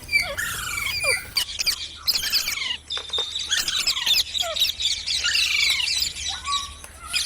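Parrots chirping and squawking: many quick calls overlapping, high and sliding up and down in pitch.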